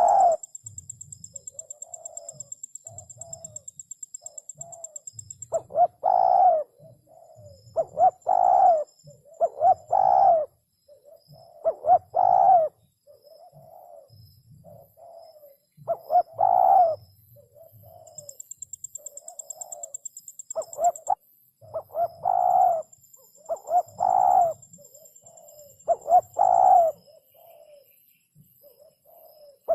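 Spotted dove cooing over and over, louder drawn-out coos every few seconds with softer, shorter coos between them.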